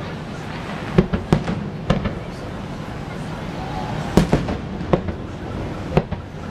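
Aerial fireworks going off: about seven sharp bangs at irregular intervals, some in quick pairs.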